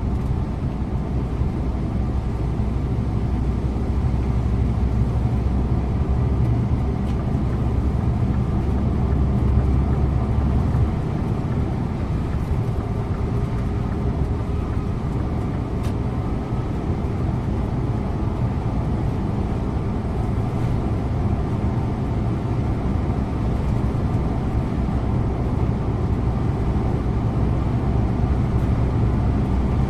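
Scania InterLink bus's engine and road noise under way, heard from the driver's seat: a steady low drone with tyre and wind noise above it. The deepest part of the drone drops away about eleven seconds in, as when the driver eases off or the gearbox shifts.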